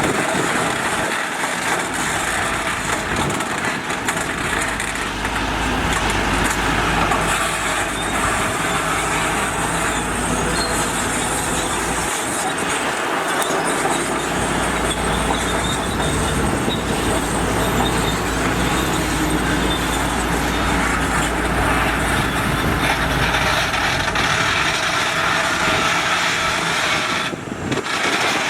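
Heavy diesel construction machinery working, a steady engine rumble with mechanical noise over it.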